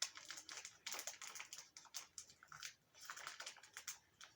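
Faint, irregular crisp crackling from a Nutella B-ready wafer snack being eaten or handled.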